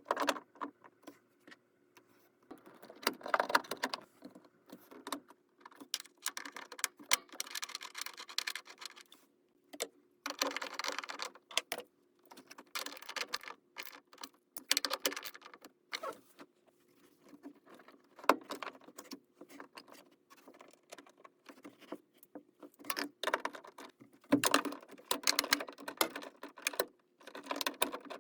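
Metal parts and tools being handled: irregular clinking, clicking and scraping in short bursts, over a faint steady hum.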